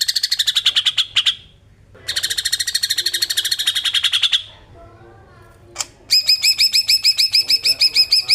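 Green leafbird (cucak ijo) giving its besetan: fast, harsh rattling trills in three bursts of about two seconds each. The last burst, starting about six seconds in, is slower and more ringing, with clearly separate pulses.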